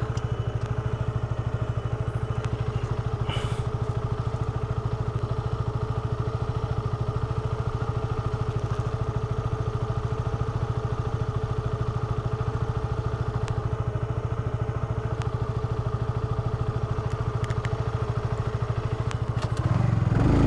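Honda CBR150R sport bike's single-cylinder engine running at steady revs while riding, an even, unchanging note with a fast regular pulse; it grows a little louder near the end.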